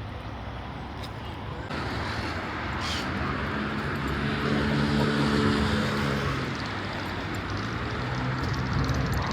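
Street traffic noise. A motor vehicle passes with a steady engine hum that swells to its loudest about five seconds in and then fades.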